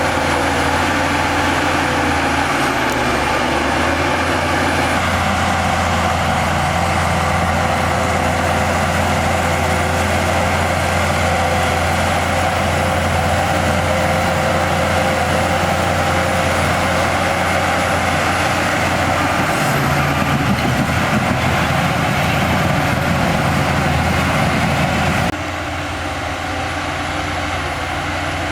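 Diesel heavy earthmoving machinery working: an engine running steadily under load. Its level drops suddenly about three seconds before the end.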